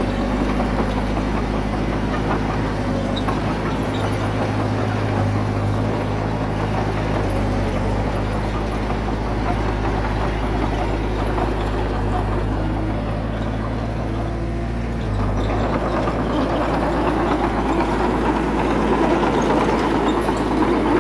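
Heavy earthmoving machine's diesel engine running steadily, then about three-quarters of the way through it turns rougher and a little louder.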